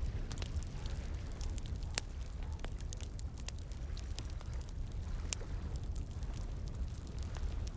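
Bonfire crackling with scattered sharp pops, one louder about two seconds in, over a steady low rush of flowing water.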